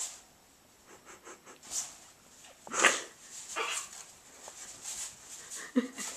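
Pomeranian puppy giving a handful of short, sharp yaps and whimpers, the loudest about three seconds in.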